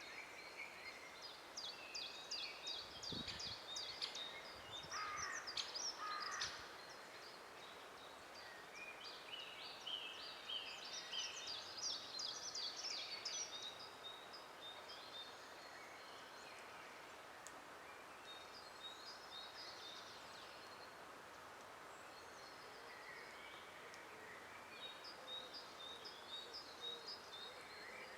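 Songbirds singing in phrases of quick, high repeated notes, several phrases a few seconds long with quieter gaps between them, over a faint steady background hiss.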